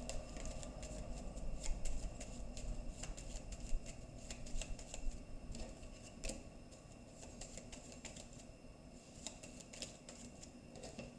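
Lenormand card deck being shuffled by hand: an irregular run of papery flicks and slaps, easing off for a couple of seconds near the end before a last flurry.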